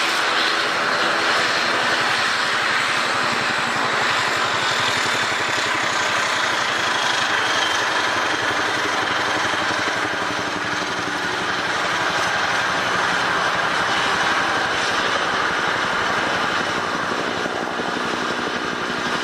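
Airliner engines running steadily on the ground, a continuous loud hum with a faint high whine that glides slightly lower partway through.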